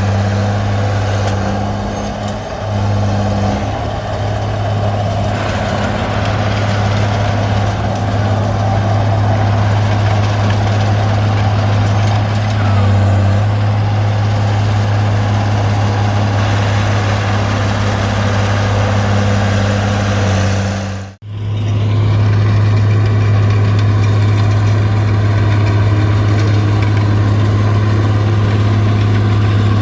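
Komatsu D20P bulldozer's diesel engine running steadily as the dozer works. About two-thirds of the way through, the sound cuts out for a moment and then resumes.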